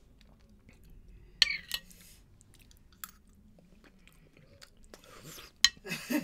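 Wet mouth sounds of someone eating soft fruit jelly from a spoon: a few sharp lip smacks and clicks with quiet chewing between them, and a brief voice sound near the end.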